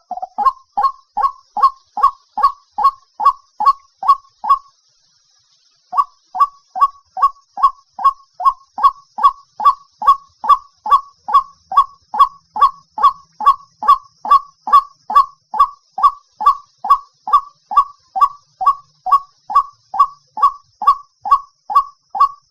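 White-breasted waterhen's lure call: a steady run of short 'ruak' notes, about two to three a second, with a break of about a second roughly five seconds in.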